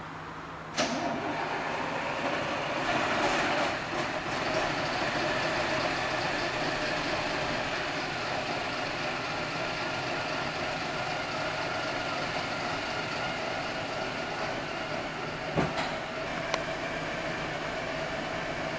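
Scania CR112 bus's diesel engine running steadily. It turns louder suddenly about a second in, and there are two short sharp clicks near the end.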